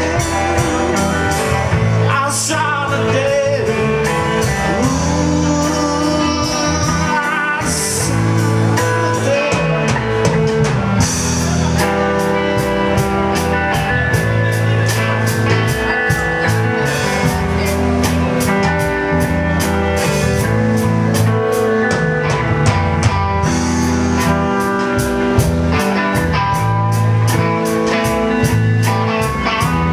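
Live rockabilly blues band playing, with electric guitar and a drum kit keeping a steady beat.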